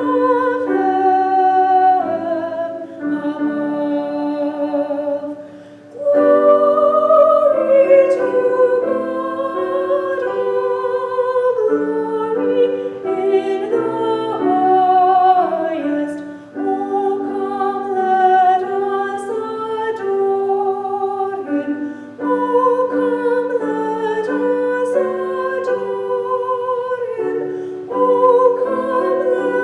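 A solo female voice sings a hymn in held, vibrato-laden notes, accompanied by piano.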